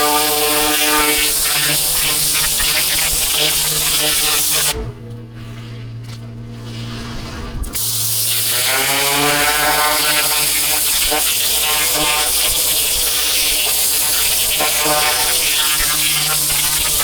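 Pressure washer running with its jet spraying. About five seconds in the spray stops for some three seconds while the machine keeps running with a low steady hum. Then the spray starts again and the machine's note rises back up.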